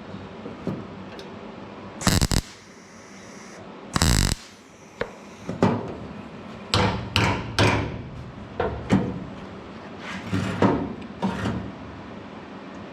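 Hammer striking sheet steel during panel beating of a rusted truck fender: about a dozen irregular sharp metallic taps, each with a brief ring. Two longer, harsher bursts come about two and four seconds in.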